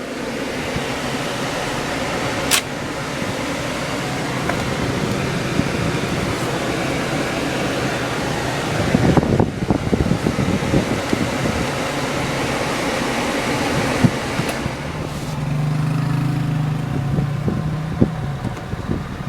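Car ventilation blower fan running steadily inside the cabin. A sharp click comes a couple of seconds in, and a few knocks come around the middle.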